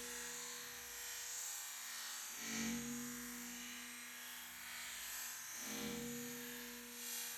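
Food sizzling in a pan on a wood-burning camp stove, an even hiss under a steady low hum that breaks off and restarts twice.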